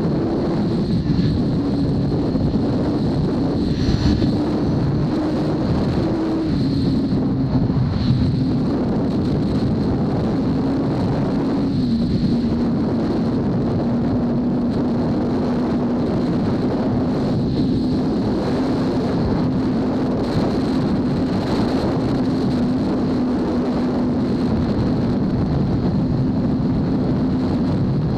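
2003 Kawasaki ZX-6R inline-four sport bike running through a full Hindle titanium exhaust at steady highway cruise. The engine note eases down a little twice in the first half, then holds steady, with wind rushing over the microphone.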